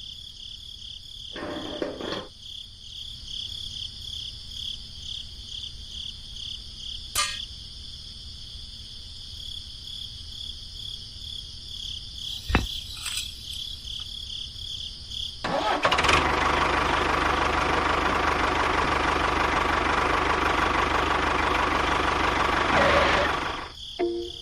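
A small motor starts abruptly about two-thirds of the way in, runs loud and steady for about eight seconds, and cuts off near the end. Before it there is a steady high-pitched pulsing whine with a few faint clicks.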